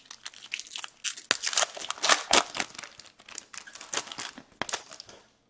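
Plastic hockey card pack wrappers crinkling and tearing as packs are handled and opened by hand. The irregular crackling stops shortly before the end.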